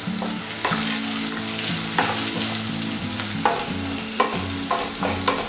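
Onions, cashews and raisins sizzling in hot ghee in a stainless steel pressure cooker pan. A wooden spatula stirs them, knocking and scraping against the pan about a second in, at two seconds, and several times in quicker succession near the end.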